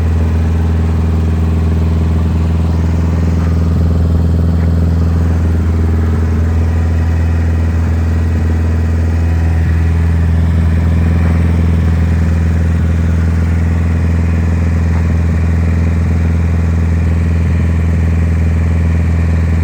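1974 Triumph Spitfire's four-cylinder engine idling steadily through an aftermarket Monza exhaust.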